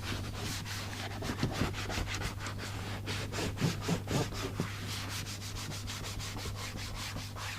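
Microfiber cloth rubbing quickly back and forth, buffing off excess trim restorer in rapid repeated strokes.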